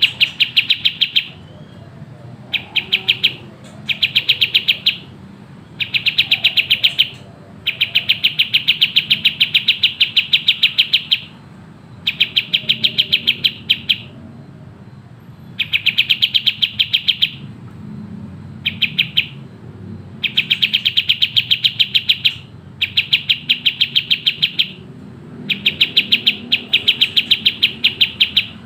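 Kapas tembak (pied triller) singing its fast, tightly packed trilled song: about a dozen bouts of rapidly repeated notes, each lasting from half a second to three seconds, with short pauses between them.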